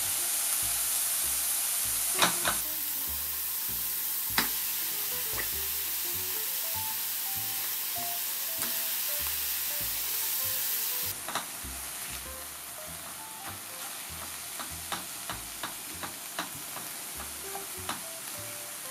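Diced onion, carrot and minced beef sizzling in oil in a stainless steel pan while being stirred with a silicone spatula. The sizzle drops abruptly about eleven seconds in, after which the spatula knocks against the pan in quick, irregular clicks.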